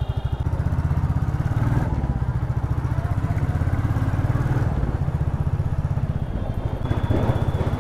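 Motorcycle engine running at a steady riding speed, its firing pulses heard as a fast, even beat.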